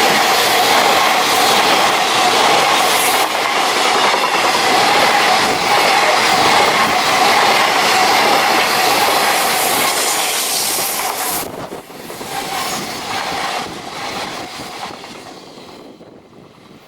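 A JR Freight freight train rolling past at speed, its wagons clattering over the rails. About twelve seconds in the noise drops suddenly, then fades away.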